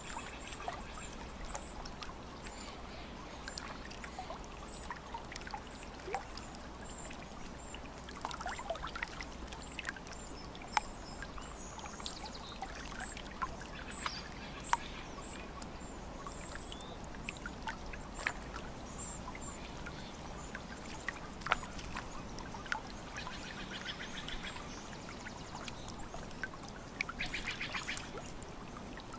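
Lake water lapping and trickling at the shore, with birds calling throughout: runs of short, high chirps and, in the last few seconds, two rapid, raspy rattling calls.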